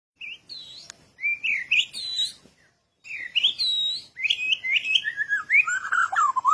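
Songbird singing: a varied run of clear whistles and quick chirps in two phrases with a short break between them, the notes dropping lower and coming faster toward the end.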